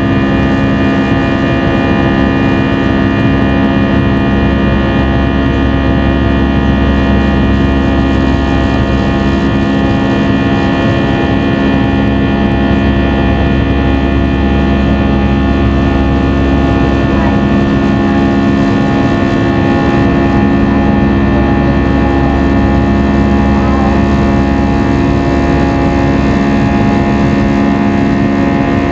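Airbus A320 cabin noise in the climb after takeoff: the jet engines and airflow make a loud, steady drone with several steady humming tones.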